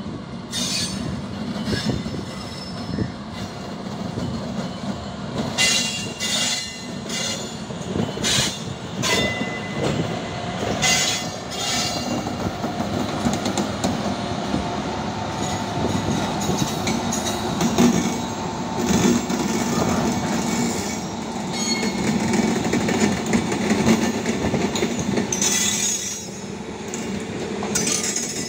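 Indian Railways electric locomotive and its flat wagons rolling past, a steady rumble of wheels on rail. Several short, harsher bursts come between about six and twelve seconds in, and another near the end.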